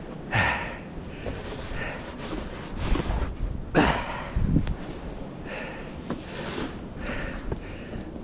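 A man breathing hard and blowing out breaths while shovelling heavy, wet snow, with the scrape and scoop of the snow shovel between breaths. There is a louder stroke about a second in and another a little before the middle.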